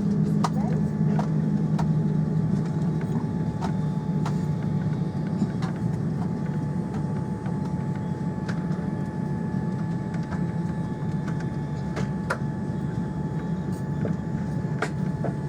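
Steady low hum inside a Boeing 787-9 airliner cabin, with faint steady higher tones and scattered light clicks and rattles.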